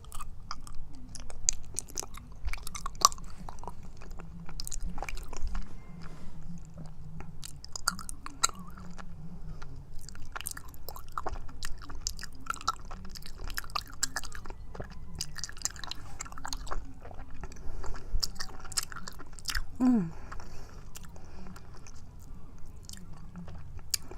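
Close-miked chewing of raw honeycomb: sticky, wet mouth smacks and crunches of wax and honey, with many small irregular clicks throughout.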